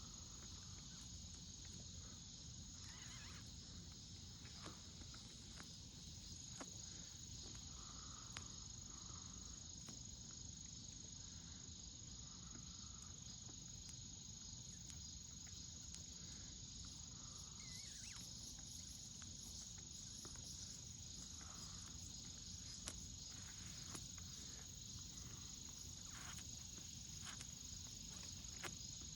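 Insects calling in an unbroken, faint, high-pitched drone, with a few soft clicks now and then.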